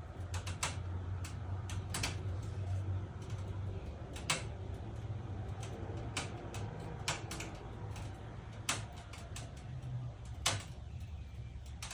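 Hitachi air conditioner running with a steady low hum and irregular sharp clicks and ticks, a few of them louder: the abnormal noise the unit is making.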